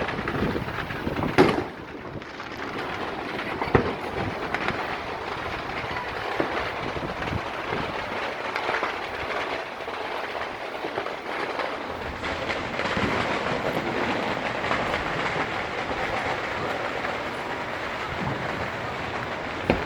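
Fireworks crackling continuously in a dense rattle of small pops, with two louder bangs in the first few seconds.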